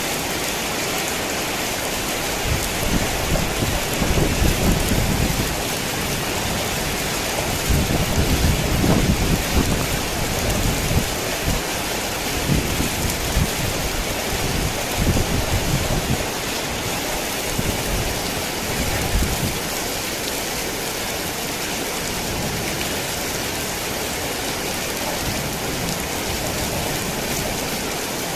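Heavy rain falling steadily. A long rumble of thunder starts a few seconds in, swells several times and dies away after about twenty seconds, leaving the rain alone.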